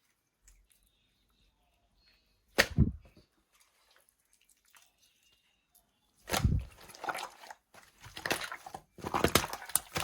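Clear slime being squished by hand: one squish a little under three seconds in, then a run of repeated squishing sounds from about six seconds on.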